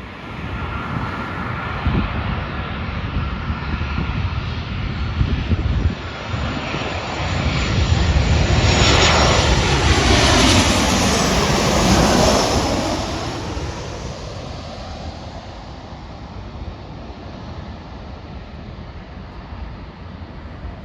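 Jet airliner passing close by, building to its loudest about ten seconds in with a falling whine as it goes past, then fading away.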